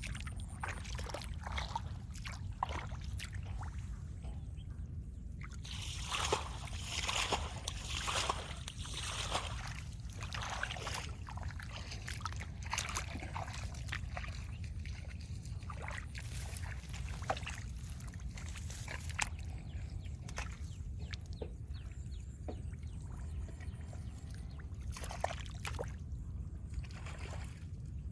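Water sloshing and splashing in irregular strokes, busiest in the first half, over a steady low rumble.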